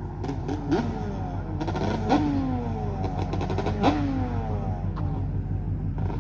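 Yamaha Banshee's two-stroke twin engine revved in three quick blips, each rising sharply in pitch and falling back, over a steady low engine rumble with bursts of rapid crackling.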